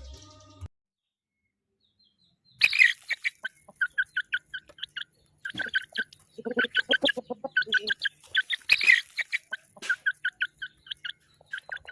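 Chickens clucking in quick runs of short notes, several a second, with two louder, longer calls among them, starting after a short silence about two and a half seconds in.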